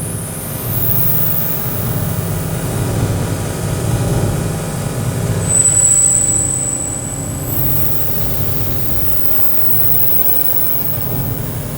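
Electronic synthesizer drone: a dense, steady low rumble. A thin high whistle sounds briefly around the middle, and a high hiss comes in for the second half.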